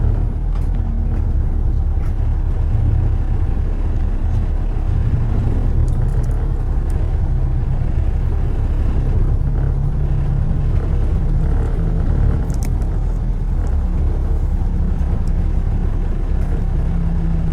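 A car driving through city streets: a steady low rumble of road and engine noise, with a few faint clicks mixed in.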